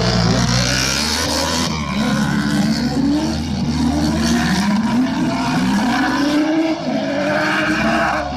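Several autocross race cars' engines revving hard together, each note climbing and dropping back again and again as they shift through the gears.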